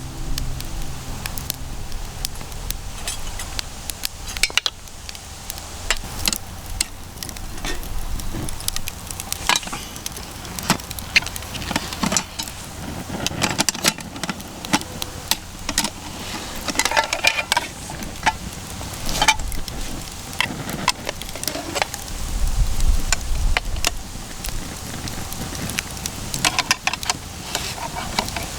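Small wood fire crackling irregularly in a converted metal steamer-basket fire pit, with bacon and fried chicken sizzling over it. A few light metallic clinks of cookware come through.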